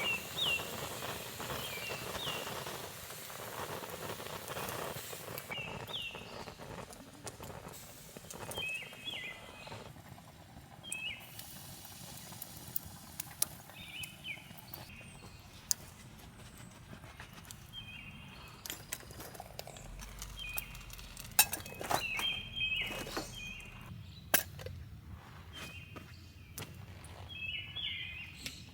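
Small birds chirping in short repeated phrases, over a rustling hiss in the first few seconds. Scattered sharp clicks and knocks in the second half are the loudest sounds.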